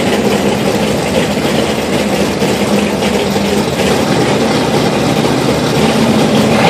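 Chevrolet Malibu drag car's engine idling loudly and steadily at the drag strip start line, staged and waiting to launch.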